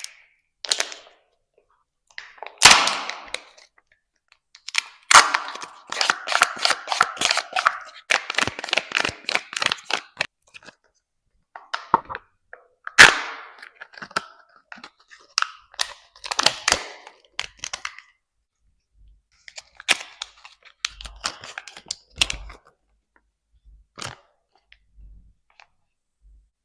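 Kinder egg packaging being unwrapped and opened close to the microphone: sharp cracks and dense crinkling in irregular bursts, with the loudest crack about three seconds in.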